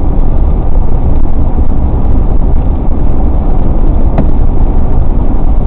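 A car driving at road speed: a steady, loud low rumble of road, tyre and engine noise, with one sharp click about four seconds in.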